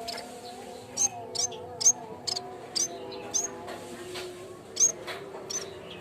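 Yellow-bellied warbler (cikrak bambu) calling: short, sharp, high chip notes, about ten of them in irregular succession, over fainter, slowly wavering lower tones in the background.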